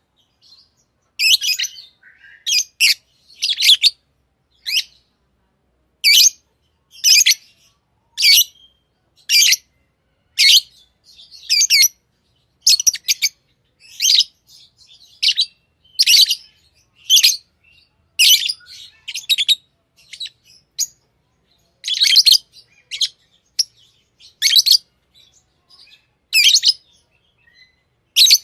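Lovebird chirping: short, high-pitched calls repeated about once a second, sometimes two in quick succession.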